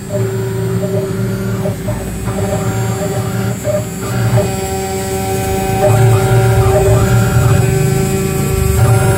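Small CNC router running, its spindle and stepper motors giving a steady electric hum of several held tones that shift as the machine moves.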